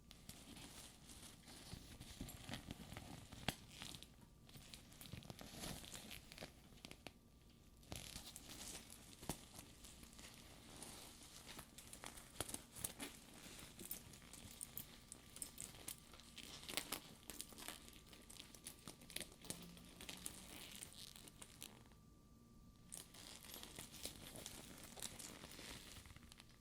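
Hands handling the outside of a studded faux leather purse: the sticky leather surface crinkles and creaks under the fingers, with many small ticks and soft taps. Faint throughout.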